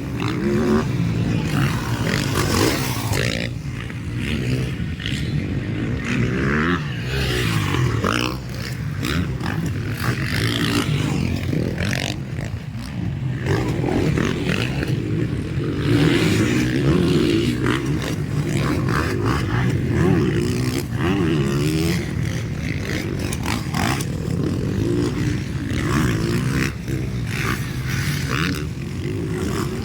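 Motocross dirt bikes racing on the track, several engines revving up and down without a break.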